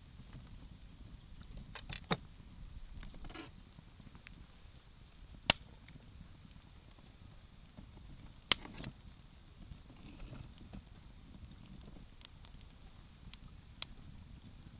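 Wood fire crackling, with a few scattered sharp pops; the loudest come about five and a half and eight and a half seconds in.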